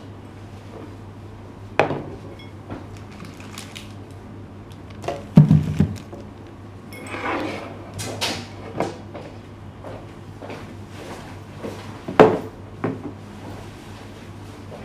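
Household handling noises: scattered sharp knocks and clatters of objects being moved and set down. The loudest cluster of knocks comes about five and a half seconds in, then a longer rustle, then another sharp knock near twelve seconds, over a steady low hum.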